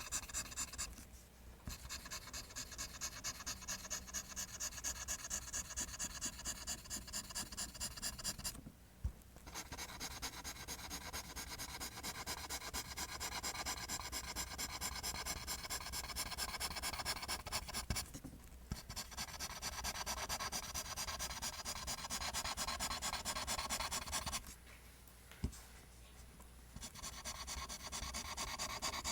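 Pencil drawing lines on paper in rapid, even back-and-forth strokes, a steady scratching rhythm. It pauses briefly three times and for a couple of seconds near the end.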